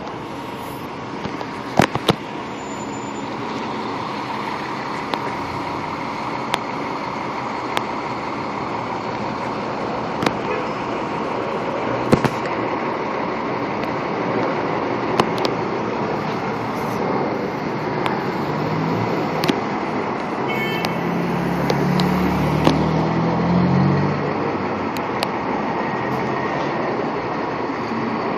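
A fire engine's diesel engine running amid steady street traffic noise. Its low drone swells for a few seconds about two-thirds of the way through, with scattered sharp clicks. No siren sounds.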